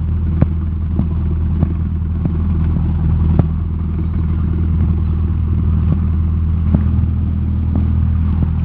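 Cessna 172SP's four-cylinder Lycoming engine running at low ground power, a steady, loud drone heard inside the cabin, with a few scattered sharp clicks and rattles over it.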